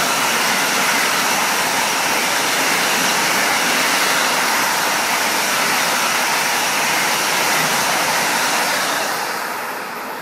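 ICE 3 high-speed electric train passing at speed: a steady rushing of wheels on rail and air along the train. It swells just before the start and fades away about nine seconds in as the train moves off.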